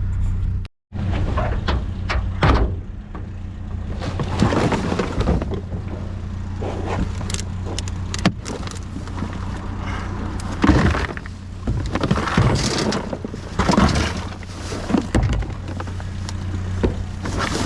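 Small pickup truck being driven: the engine runs with a steady low hum under uneven road and wind noise, with short knocks and rattles scattered throughout.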